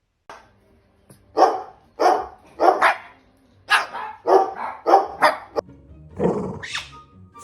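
A dog barking about ten times in short, uneven bursts, starting about a second in.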